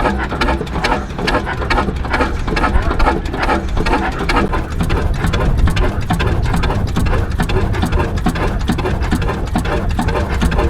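Antique stationary engine running with a rapid, even mechanical clatter over a deep low rumble.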